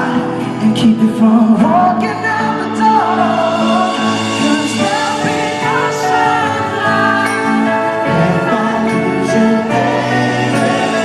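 A live band playing a slow pop ballad, with sung vocal lines over sustained chords.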